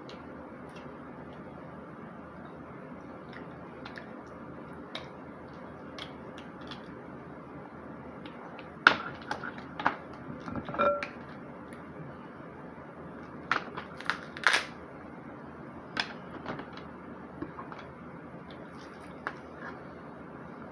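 Snow crab shells being cracked and picked apart while eating: scattered sharp cracks and clicks, with clusters of louder cracks about nine to eleven seconds in and again around fourteen seconds, over a steady background noise.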